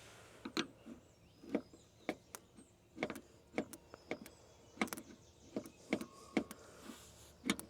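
Sharp, irregular electrical snaps as the starter solenoid terminals are bridged by hand and spark, about fifteen in all, some in quick pairs. No cranking follows: the starter does not turn, which the owner takes for a stuck starter.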